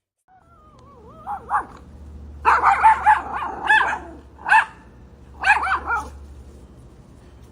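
A dog whining with falling pitch, then giving a run of short, high barks in several bursts.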